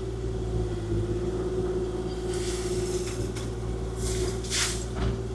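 Kubota KX040-4 mini excavator's diesel engine running steadily under work, with a steady hydraulic whine. Two brief rushes of noise, about two and a half and four and a half seconds in.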